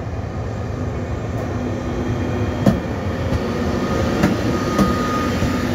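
ÖBB class 1116 Taurus electric locomotive hauling Nightjet coaches past, with a steady electric hum and rolling noise. A few sharp clicks come from the wheels over rail joints, and a higher steady tone joins near the end.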